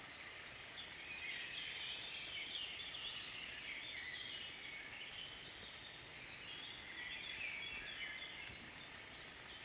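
Several small birds chirping and trilling, with quick falling notes, over a faint steady hiss.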